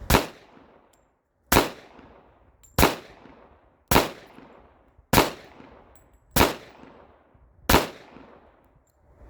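Handgun fired seven times at a steady pace, about one shot every second and a quarter, each crack followed by a short fading echo.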